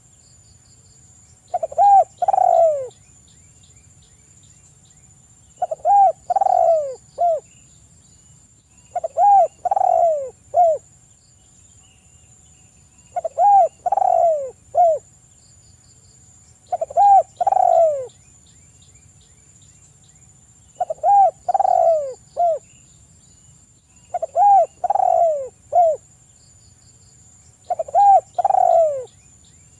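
Spotted dove cooing: a phrase of three or four falling coos, repeated eight times about every four seconds. A faint steady high whine and faint ticking run underneath.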